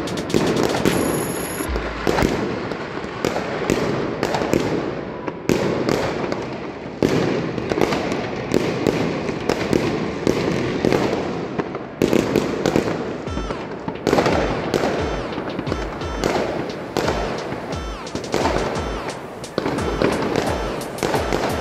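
Aerial fireworks going off in a dense, irregular barrage of sharp bangs and crackles, several a second, with background music underneath.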